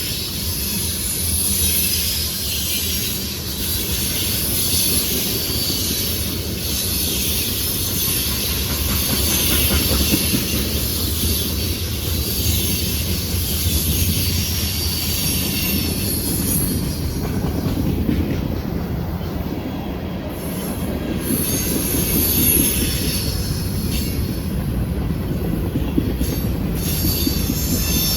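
Freight train rolling past on a curve, its wheel flanges squealing against the rail over a steady low rumble. The squeal fades for a few seconds past the middle and then returns; squealing on this curve is common.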